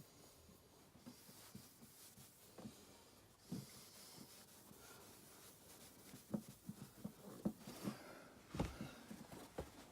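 Faint rubbing of a microfiber cloth wiping over a sanded plastic headlight lens, with light irregular knocks and handling sounds that come more often in the second half.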